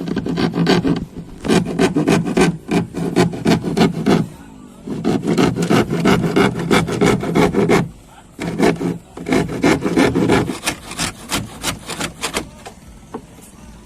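A hand tool worked back and forth on wood in quick scraping strokes, several a second, in three runs with short breaks, then slower separate strokes before it stops near the end.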